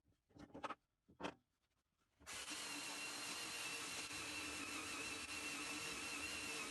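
A few short scuffs, then about two seconds in an electric power tool switches on suddenly and runs steadily with a high whine over a hiss.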